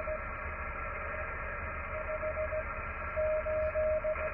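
Morse code (CW) signal from an amateur radio transceiver's speaker: a single beeping tone keyed on and off in dots and dashes over steady band hiss. The tone stops for about two seconds, then resumes with short dots and longer dashes. It is a station sending its call sign.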